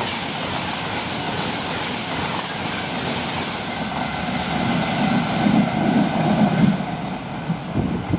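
A train passing on the rails: a steady rushing noise, with rhythmic low wheel rumbles building about five seconds in. The high hiss fades away about seven seconds in.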